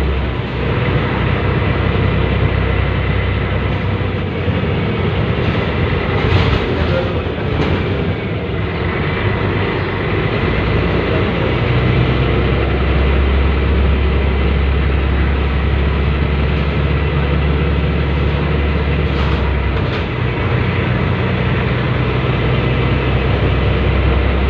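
Scania L113CRL bus diesel engine running under way, a loud steady low drone. The drone eases off for several seconds about a quarter of the way in, then comes back as strong as before.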